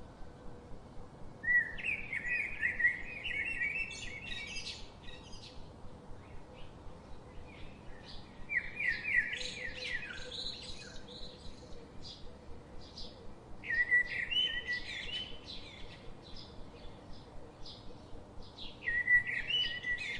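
Songbirds chirping in four bursts of quick, repeated high notes, over a faint steady ticking about three times a second.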